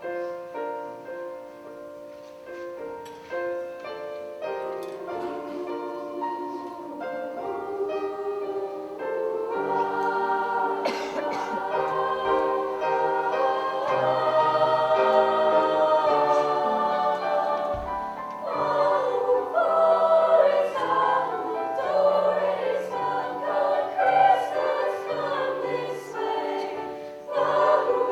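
Vocal ensemble singing sustained chords in harmony, starting soft and swelling louder about ten seconds in.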